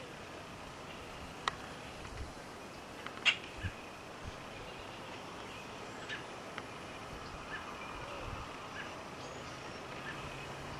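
Faint bird calls over a steady outdoor background hiss, with two sharp clicks, the louder about three seconds in, and a faint low hum near the end.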